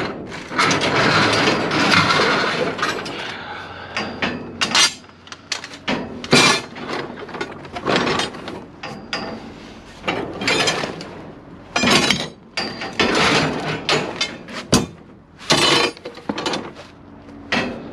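Pieces of scrap metal being handled and stacked: a run of irregular clanks, knocks and clinks, with a longer scraping clatter in the first few seconds.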